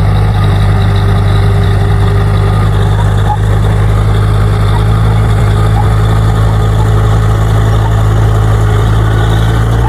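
Bulldozer's diesel engine running: a loud, steady low drone that holds the same speed throughout.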